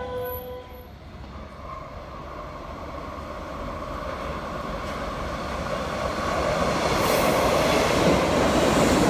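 An RBS metre-gauge electric commuter train approaching and running past the platform. Its wheel and running noise grows steadily louder and is loudest near the end. In the first second a fading electric whine comes from another departing train.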